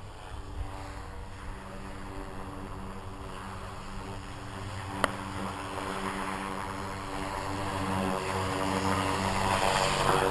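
Blade 230S RC helicopter in flight: its brushless motor and spinning rotor blades make a steady buzzing hum of several tones that grows louder over the last few seconds. A single sharp click about five seconds in.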